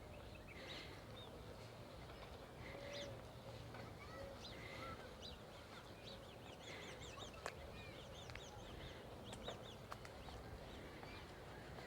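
Birds chirping and calling, many short quick chirps overlapping, busiest about halfway through, over a steady low rumble, with a couple of sharp clicks.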